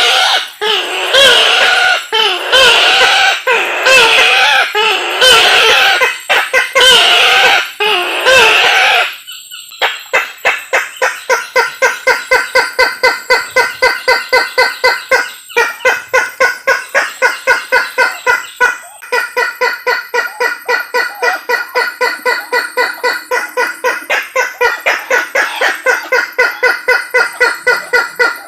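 Lure-call recording of the Sulawesi kareo (tattakeo), a waterhen, calling. For about nine seconds it gives loud, wavering calls; then, after a brief pause, it gives a fast, even series of repeated notes, about five a second.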